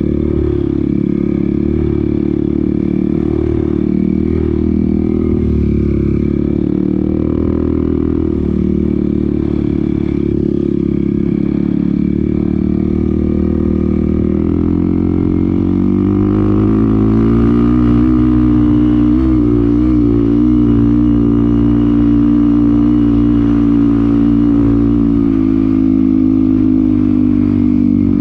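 Off-road motorcycle engine running steadily under way. Its pitch rises about halfway through and then holds higher.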